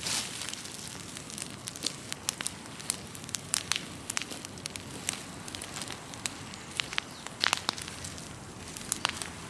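Large open fire of cut trees and branches burning, crackling with many sharp, irregular pops over a steady rush of flame.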